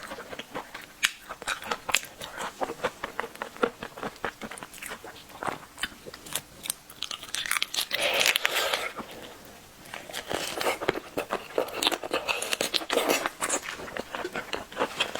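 Close-miked eating of seafood: crunchy bites and chewing, a quick run of sharp clicks and crackles, with a denser wet, noisy stretch about eight seconds in.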